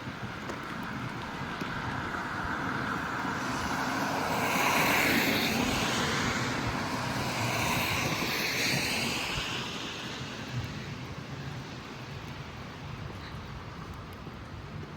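A vehicle passing by: its noise swells to a peak about five seconds in, holds through a second hump a few seconds later, then fades away.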